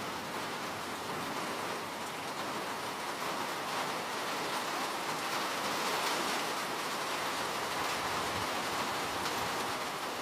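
Steady rain falling, with a dense patter of raindrops on a surface.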